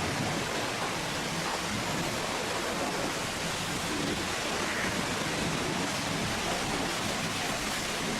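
Pressure washer spraying water onto a truck, a steady hiss of spray with no breaks.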